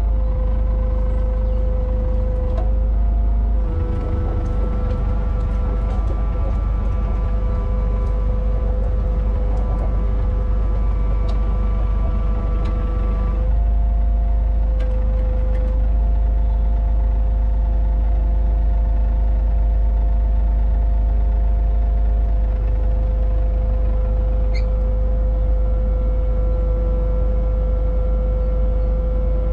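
Kubota mini excavator's diesel engine running steadily under hydraulic work, its note shifting slightly as the load changes about four seconds in and again around thirteen seconds, with a few faint knocks.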